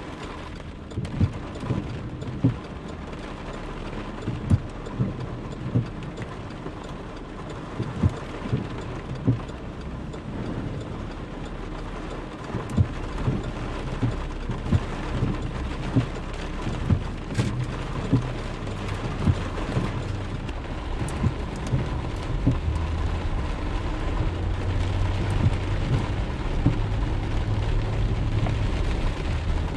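Heavy rain falling steadily, with frequent loud drops thudding close by. A low rumble builds through the second half.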